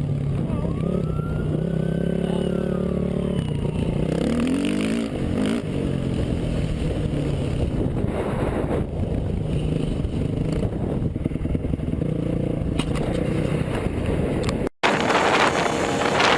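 Vehicle engine revving up and down for the first few seconds, then running steadily under road and wind noise. The sound breaks off abruptly near the end and a different, noisier sound follows.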